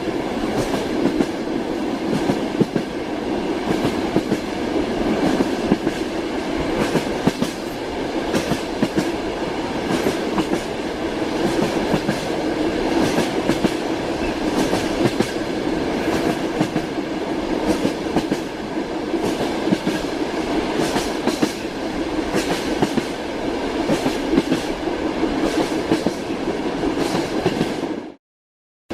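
Wheels of a moving train clattering over the rails, heard from inside the carriage: a steady rumble with many irregular clicks. The sound cuts out abruptly for under a second near the end, then returns.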